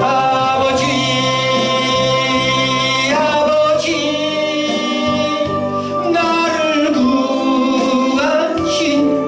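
Gospel song: a singer holds long notes over sustained organ chords.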